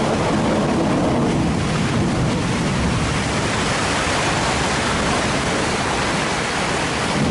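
Steady rushing noise of wind and sea water around a ship.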